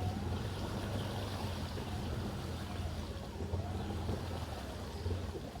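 Can-Am 700 XMR ATV engine running at fairly steady low revs, with a faint pitch that wavers up and down.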